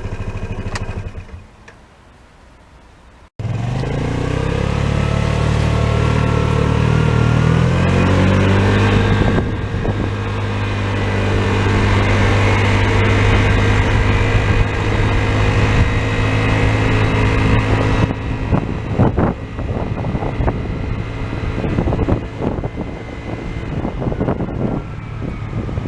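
Piaggio Vespa ET4 125 scooter engine under way: after a brief fade, the engine note comes in sharply and rises as the scooter accelerates, then holds steady at cruising speed. Over the last several seconds it turns choppier, with rustling and knocks.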